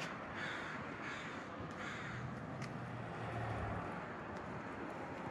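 A crow cawing: a run of three or four harsh caws in the first two seconds, then quieter background with a low hum.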